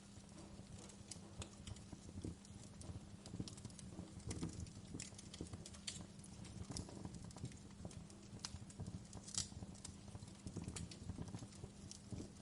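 Wood fire crackling: irregular sharp pops and snaps of burning logs, a few louder ones about four and a half, seven and nine and a half seconds in, over a low rumble of the flames.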